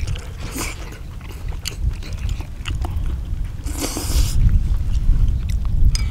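People chewing and slurping chunks of spicy braised chicken and beef intestine, with many short wet mouth clicks and a louder hissing slurp about four seconds in, over a steady low rumble.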